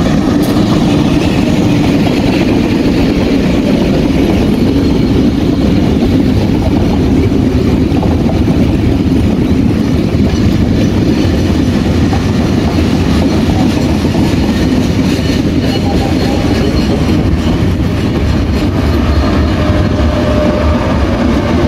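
Diesel-locomotive-hauled passenger trains passing each other at close range on double track: the locomotive engines and the wheels on the rails make a loud, steady rumble that goes on without a break.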